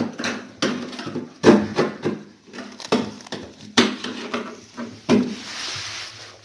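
Refrigerator parts being handled during a repair: a run of sharp knocks and clatter with rubbing between them, then a short hissing scrape near the end.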